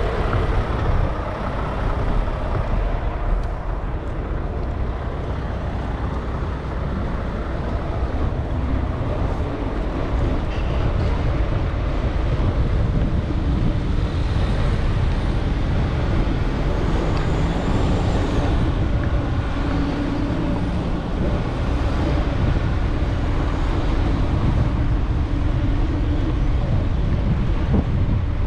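Steady city street traffic heard from a moving bicycle, under a continual low rumble of wind on the microphone. Around two-thirds of the way through, a passing vehicle's engine hums a little more clearly.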